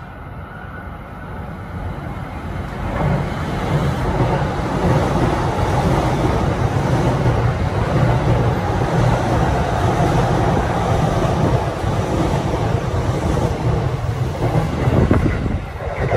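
Saikyo Line E233-7000 series electric commuter train running along the platform: the rumble of wheels on rail and rush of air build up over the first few seconds as it comes in, then hold steady and loud as the cars stream past.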